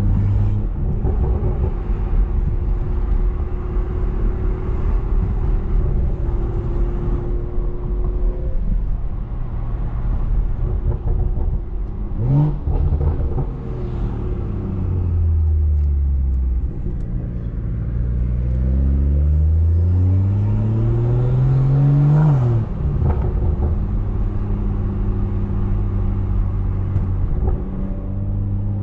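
Straight-piped, big-turbo BMW 340i inline-six heard from inside the car, cruising at low revs. About two-thirds of the way through it revs up steadily under acceleration for several seconds, then drops off sharply as the throttle is lifted.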